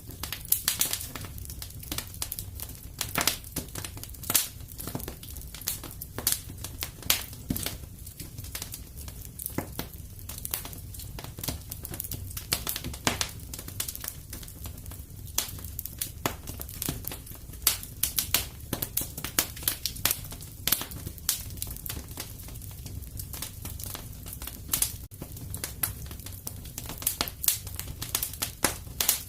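Fire crackling in a fireplace: a dense, irregular run of sharp pops and snaps over a steady low rumble.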